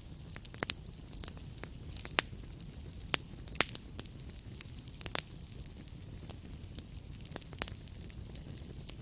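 Wood fire in a fireplace crackling: irregular sharp pops and snaps, a few louder ones, over a steady low rumble of burning.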